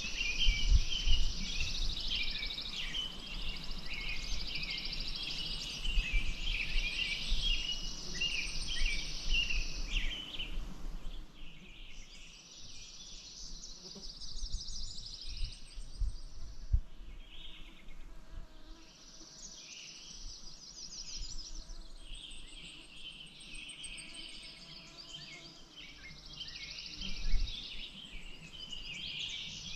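Several songbirds singing and chirping together over a steady high, insect-like buzz, with bouts of low rumbling noise. The birdsong thins out for a stretch in the middle and comes back before the end, and a single low thump sounds near the end.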